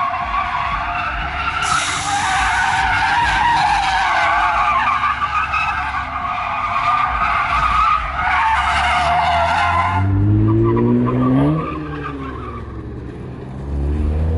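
Car tyres screeching continuously with a wavering squeal for about ten seconds as a car skids. The squeal cuts off suddenly, and then the engine revs up and drops back, revving again near the end.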